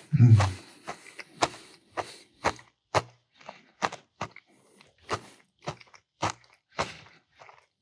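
Close-miked chewing, with a sharp mouth click or crunch about twice a second. A short low hum from the eater comes just after the start.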